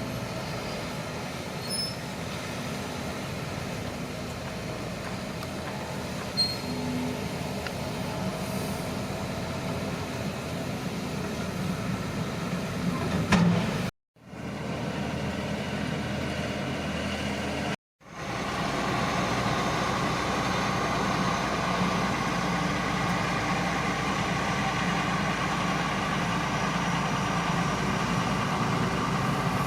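Shantui crawler bulldozer's diesel engine running steadily while the machine works, with a sharp knock about halfway through. The sound drops out twice, briefly, and comes back somewhat louder after the second gap.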